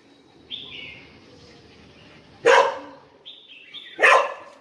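Pomeranian dog barking sharply twice, about a second and a half apart, with a thin high-pitched whine before each bark.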